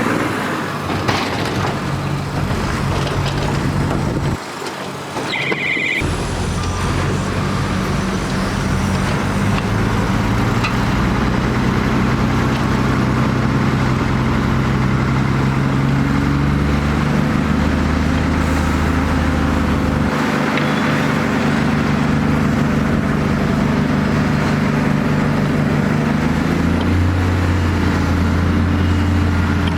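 Heavy diesel earthmoving machinery running steadily under load, with a brief high tone about five seconds in and a change in engine note near the end.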